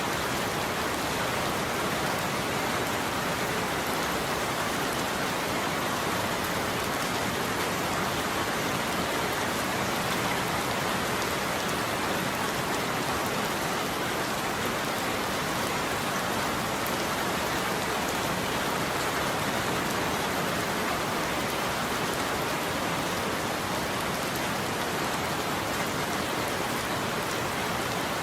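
Steady heavy rain falling on a roof, an even, unbroken patter with no thunder.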